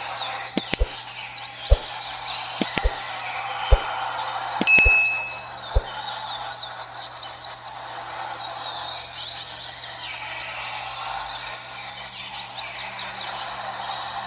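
Many double-collared seedeaters (coleiros) singing at once in a dense, overlapping chorus of quick high whistled notes. Several sharp knocks cut through it in the first six seconds.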